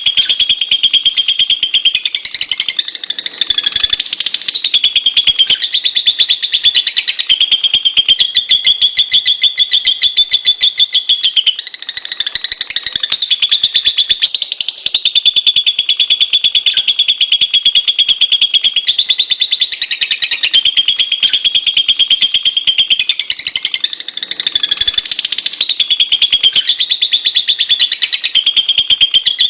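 Lovebird giving a long, unbroken, high-pitched chatter of very rapid repeated notes, its pattern shifting briefly a few times.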